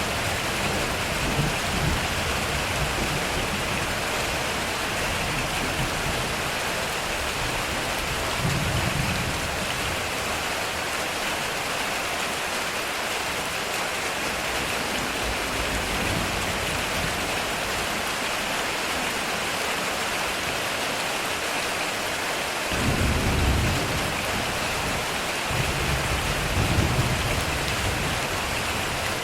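Heavy rain drumming steadily on a metal roof, with low rolls of thunder at the start, about nine seconds in, and twice more in the last six seconds.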